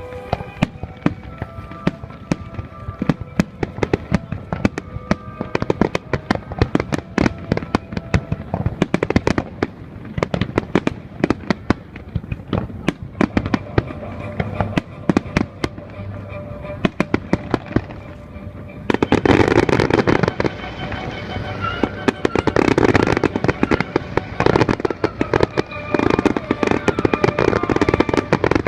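Aerial fireworks going off in a rapid, continuous run of sharp bangs and crackles, with music playing under them. The bursts grow louder and denser about two-thirds of the way through.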